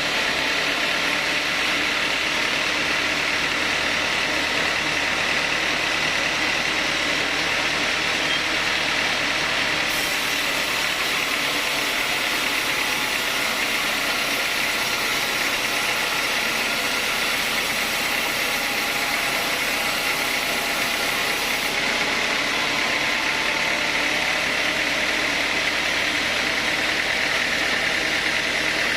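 Sawmill machinery running steadily, an even mechanical hum with a constant high whine and no change in level.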